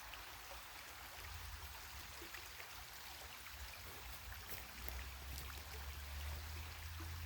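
A creek running steadily, a faint even rush of water with small scattered ticks, over a low steady rumble.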